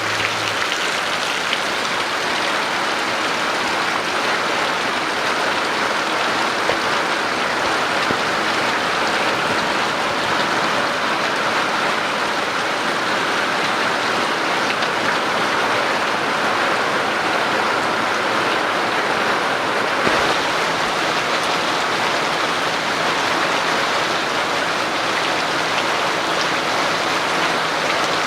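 Steady rain falling, an even, unbroken hiss that holds at the same level throughout.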